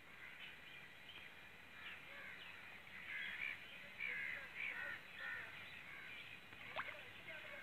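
Faint birds calling: many short, repeated calls, with one sharp rising note near the end.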